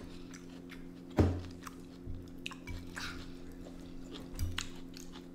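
Close-miked chewing of salad, with forks clicking against plates and a bowl, the sharpest click about a second in, over a steady low hum.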